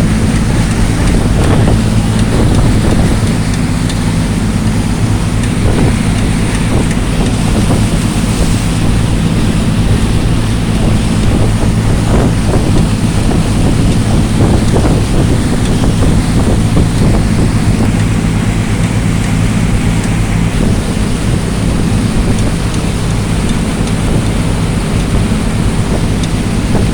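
Boat engine running steadily as a low hum of several steady tones, with wind buffeting the microphone and water noise from the crossing.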